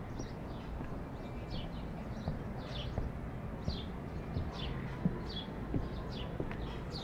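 Small birds chirping over and over, short falling chirps about every half second, above a steady low outdoor rumble. A walker's footsteps land about every 0.7 s from a couple of seconds in.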